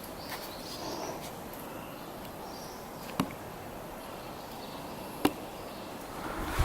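Quiet outdoor woodland ambience with faint high chirps, broken by two sharp knocks, one about three seconds in and one about five seconds in.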